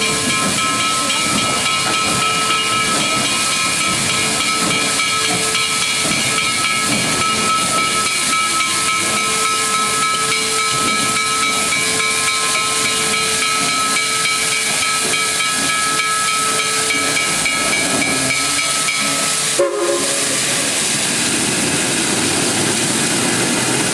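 Steam locomotive No. 734, a 2-8-0 Consolidation, venting steam in a loud, steady hiss with several steady ringing tones over it. About 20 seconds in, the hiss breaks off with a click and gives way to a softer, lower rushing sound.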